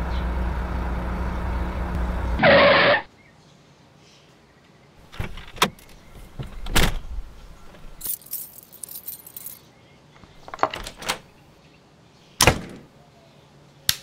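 Car engine running, cut off about two and a half seconds in by a short loud tone. Then scattered clicks and knocks, keys jangling about eight seconds in, and a front door being opened and shut, with a sharp knock near the end.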